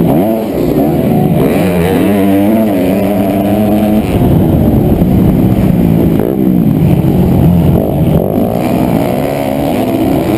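Honda CRF250R's single-cylinder four-stroke engine revving up and dropping back again and again through the gears, heard close up from a camera mounted on the bike, with a higher rev held for a couple of seconds before it falls away about four seconds in.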